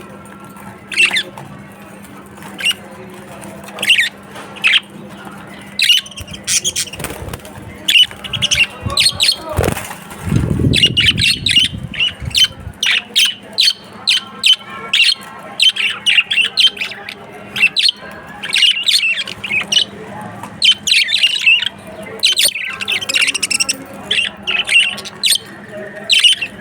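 A flock of budgerigars chirping and squawking in short, sharp calls, sparse at first and busy from about six seconds in. About ten seconds in there is a low, rumbling noise lasting about two seconds.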